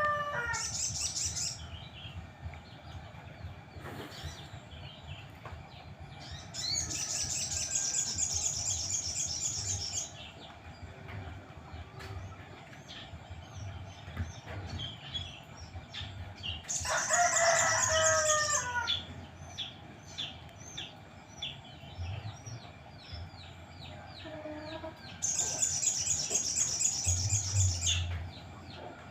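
Crimson sunbird singing: three rapid, high-pitched trills of about three seconds each, with short high chirps between them. A rooster crows about halfway through, over the second trill.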